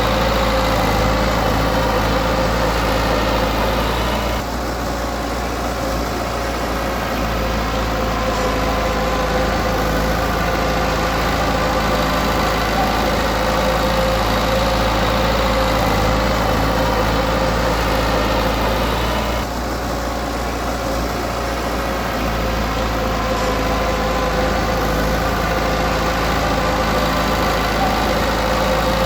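Heavy-equipment diesel engine running steadily, easing off briefly about four seconds in and again about twenty seconds in, then picking back up.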